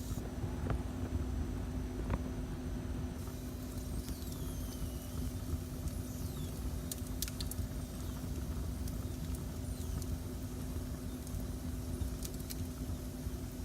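Wood fire burning in a fireplace: a steady low rumble with a constant hum under it, and a handful of sharp pops and crackles from the burning wood. A few faint high falling whistles come and go.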